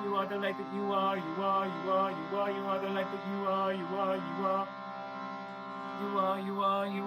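Wordless improvised singing, a wavering melodic line, over a steady held drone; the voice pauses for about a second and a half near five seconds in while the drone sustains.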